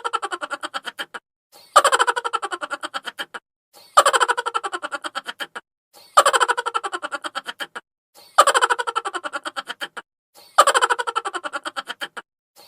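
Chipmunk laughter sound effect: a high-pitched, sped-up laugh made of a fast run of 'ha-ha' pulses that falls in pitch and fades. The same laugh repeats about every two seconds, six times.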